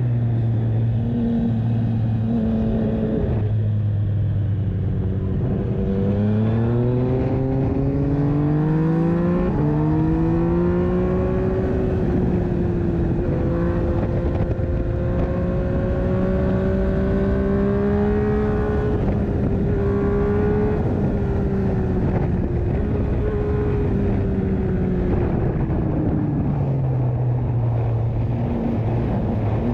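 Yamaha MT-09 (FZ-09) inline three-cylinder engine breathing through an Akrapovic exhaust under way: a low note at first, climbing steadily in pitch as it accelerates from about four seconds in, holding high, then falling away again near the end.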